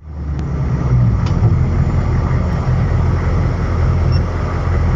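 1990 M998 Humvee's diesel V8 running steadily as it drives, with a low rumble and road noise.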